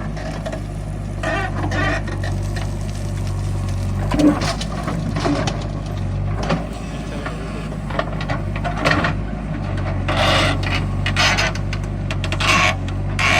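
Diesel engine of a heavy working machine running steadily, with irregular scraping and rubbing noises and a few short knocks over it.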